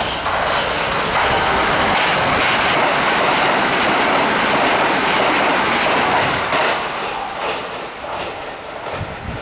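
Kintetsu 23000 series Ise-Shima Liner electric limited express running through the station at speed without stopping: a loud rush of wheels on rail that holds for about six seconds and then fades as the train moves away.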